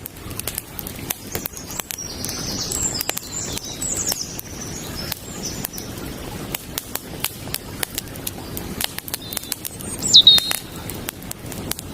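Campfire crackling with frequent sharp pops over a steady low rush of creek water. Birds chirp from about two to five seconds in, and a louder bird call falling in pitch comes about ten seconds in.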